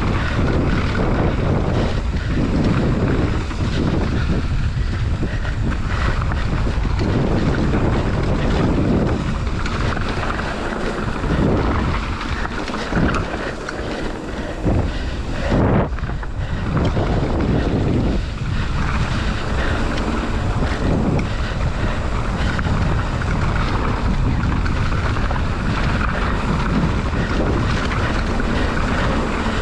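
Wind buffeting the microphone of a mountain bike rider's camera on a trail descent, over the rumble of tyres on dirt and the clatter of the bike over bumps.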